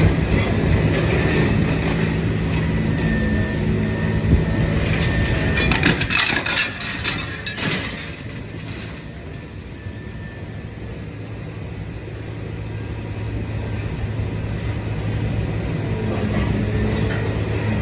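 Idromec T650 CLS scrap metal shear baler running, its power unit giving a steady mechanical hum. About six seconds in, scrap metal crunches and clatters for a couple of seconds, then the hum drops and slowly builds again.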